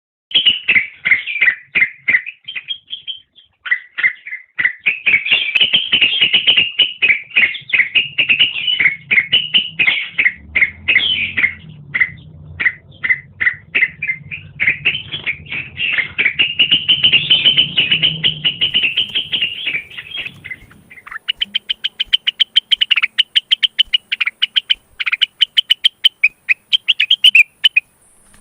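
Male cucak wilis (rengganis), a leafbird in breeding condition, singing a fast, continuous chattering song with one short pause a few seconds in. About two-thirds through, the song changes to quicker runs of rapidly repeated notes.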